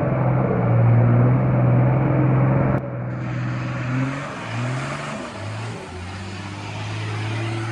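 Four-wheel-drive engine running steadily under load, then, after an abrupt cut about three seconds in, revs rising and falling briefly before settling to a steady lower note.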